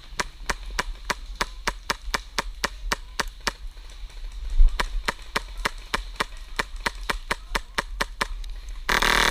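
Airsoft gun firing single shots at a steady rate of about three to four a second, each a sharp crack, then a short very rapid full-auto burst near the end.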